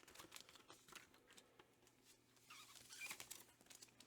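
Near silence with faint rustling and light ticks of comic books being handled, a little louder about two and a half to three seconds in.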